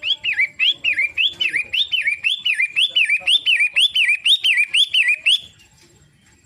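Long-tailed shrike (pentet) calling a fast, loud string of repeated chirping notes, each sweeping up and back down, about three a second. It stops about a second before the end.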